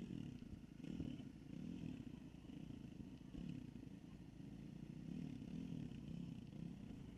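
Dirt bike engine running, its revs rising and falling.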